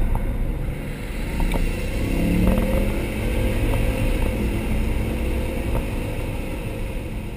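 Car engine running, its pitch rising about two seconds in, then slowly fading toward the end.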